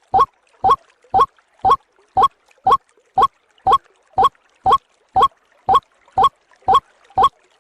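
White-breasted waterhen lure call: one short, slightly upward-sweeping note repeated evenly, about twice a second.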